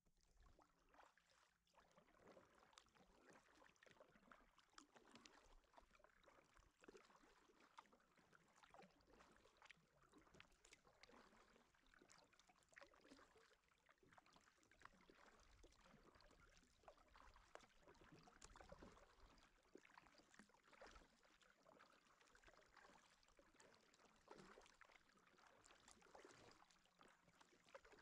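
Faint kayak paddling: the paddle dipping and splashing in the water, with water trickling and dripping off the blades in an uneven patter.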